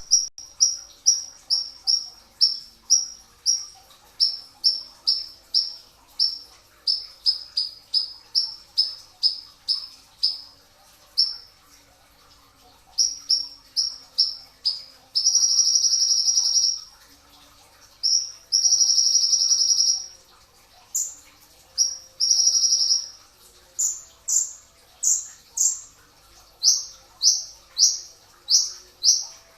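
A kolibri ninja sunbird singing: a series of short, sharp high notes about two a second, broken about halfway by three long buzzing trills of a second or two each, then a faster run of rising notes near the end.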